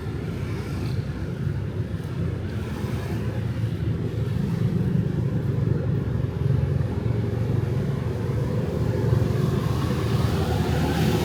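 City street traffic of motorbikes and cars passing, a steady low rumble that grows a little louder after a few seconds.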